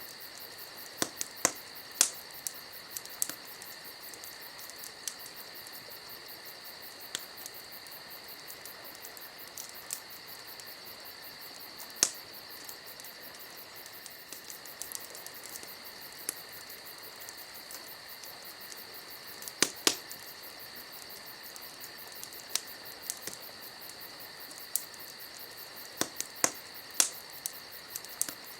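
Wood campfire crackling, with sharp pops every second or few, the loudest a handful of snaps spread through. Behind it crickets chirr steadily and high.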